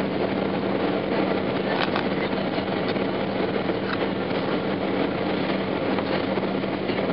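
Boeing 737-800 cabin noise in flight on approach: a steady rush of engine and airflow noise with a constant low hum and a few light rattles.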